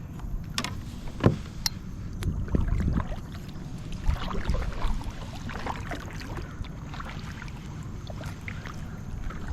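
Kayak moving through the water while trolling: water splashing and sloshing, with scattered knocks and clicks against the hull, the sharpest about a second in.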